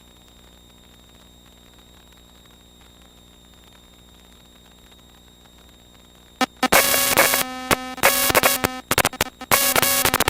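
A faint steady electronic hum, then, about six and a half seconds in, loud harsh buzzing bursts of electronic noise that cut in and out repeatedly, heard through the aircraft's radio and intercom audio.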